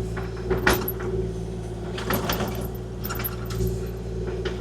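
Kubota KX040-4 mini excavator running steadily at working speed, with a few sharp knocks and scrapes from the bucket working sod and dirt, the loudest less than a second in.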